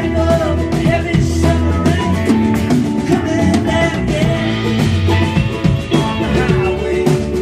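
Live rock band playing a song: electric guitars over bass and drums, loud and steady.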